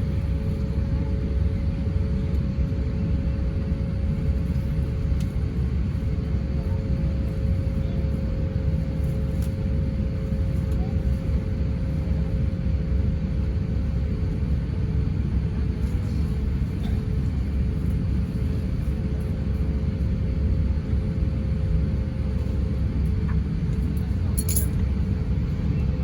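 Cabin noise in an Airbus A350-900 with its Rolls-Royce Trent XWB engines running: a steady, even rumble of engine and airflow with a faint steady hum on top that drops very slightly in pitch twice.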